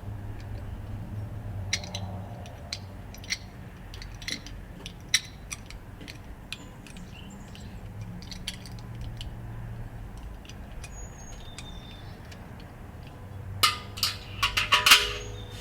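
Small metallic clicks and taps as the lid thermometer and its metal tab are worked against the steel grill lid. Near the end comes a quick cluster of sharper clinks with a brief ring.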